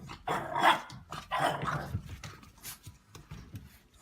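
A dog barking: two loud, rough barks in the first two seconds, then a few quieter ones.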